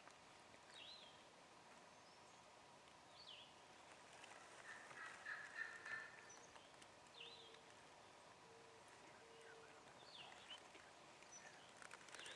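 A wild turkey gobbling faintly once, about five seconds in, with a few small bird chirps scattered through the quiet.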